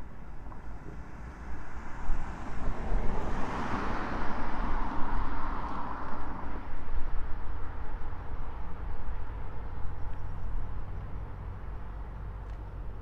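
Intermodal freight train passing, with a swell of rolling noise that builds a couple of seconds in, peaks and eases off, over a steady low rumble.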